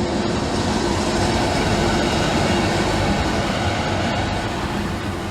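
Class 90 electric locomotive hauling a passenger train into the station: a steady rail rumble with a steady hum, easing slightly near the end.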